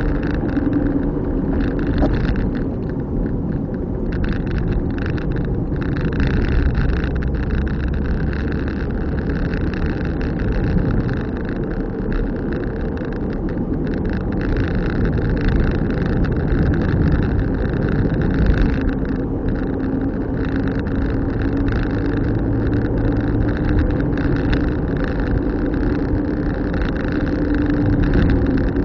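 A car being driven, with steady engine and tyre rumble from the road.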